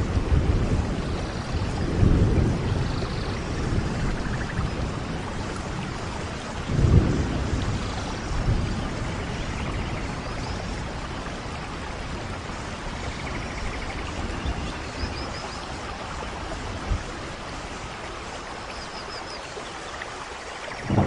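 Steady rain with rolls of low thunder, the rumble swelling about two seconds in and again about seven seconds in, then easing off.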